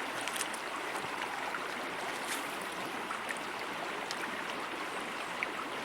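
Small river flowing steadily, an even rush of water, with a few faint clicks over it.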